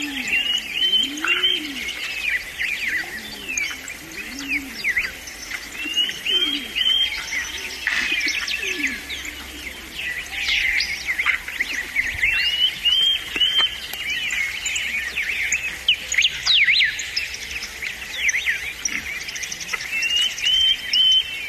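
Several birds singing at once: dense, overlapping high chirps and trills, with one bird repeating the same short song phrase every few seconds and lower rising-and-falling calls underneath in the first half.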